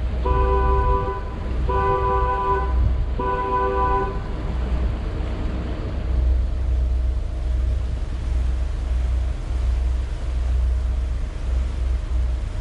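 A boat horn sounds three blasts of about a second each, with a two-tone pitch. A steady low rumble runs underneath and continues after the blasts.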